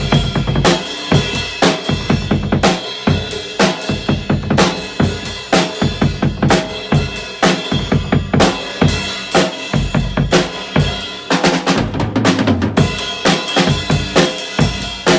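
Drum kit played hard in a fast, busy beat, with kick, snare and cymbals struck in quick succession. Around the middle the pattern shifts briefly to lower, tom-like hits before the beat resumes.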